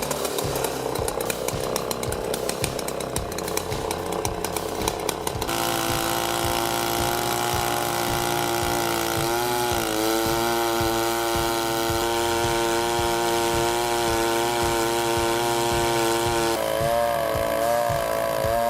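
Chainsaw running at high revs, first rough and uneven, then from about five seconds in a steady high engine whine that dips briefly about nine seconds in before holding again.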